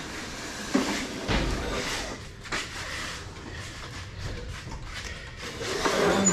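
Several short clunks and knocks of something being handled, over a steady hiss.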